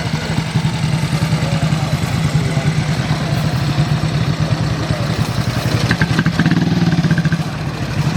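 Motorcycle engine running steadily at low revs, a low, even throb with no revving.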